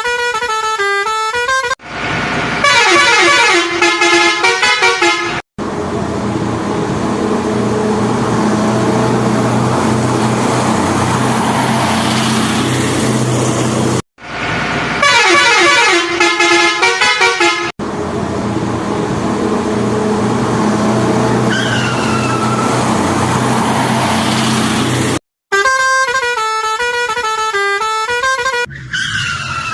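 A vehicle horn playing a stepped tune in short stretches, alternating with long stretches of a heavy vehicle engine running steadily. The sounds switch with abrupt cuts, as in an edited sound-effects track.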